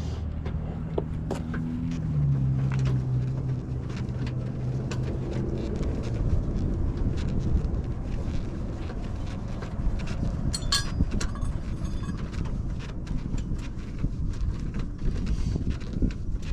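A vehicle engine runs steadily for the first few seconds, its pitch dropping slightly about two seconds in. It then gives way to rumbling noise with scattered metallic clicks and rattles as the Cadillac Escalade's underbody spare-tire hoist is cranked back up.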